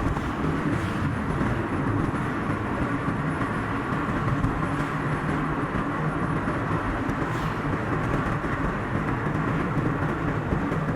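A car driving along a road: steady road and engine noise, played back at double speed.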